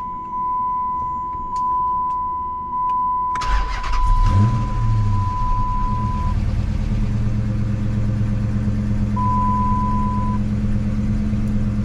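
A 2006 Dodge Charger R/T's 5.7-litre Hemi V8 cranks about three seconds in, catches with a brief flare of revs and settles into a steady idle, right after a crankshaft sensor swap meant to cure a misfire. A steady high electronic beep sounds over the start, stops, and beeps once more later.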